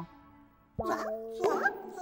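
Children's cartoon soundtrack: a note fades into a brief lull, then about a second in the music comes back in with held tones and wavering, sliding pitched cartoon sounds over them.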